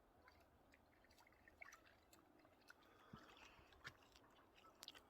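Near silence: faint outdoor ambience with a few scattered soft ticks.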